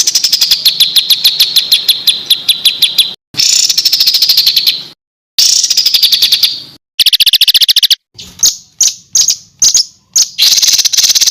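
Songbird song of rapid-fire harsh notes, the 'tembakan' phrases prized in Indonesian songbird contests, at about ten notes a second in bouts of one to three seconds with abrupt cuts between them. Between about eight and ten seconds in come separate sharp chips a few a second, then the dense chatter resumes.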